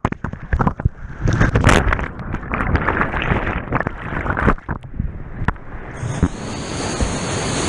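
Whitewater churning and splashing in uneven surges against the microphone, with sharp knocks, settling into a steady rush of rapids about six seconds in.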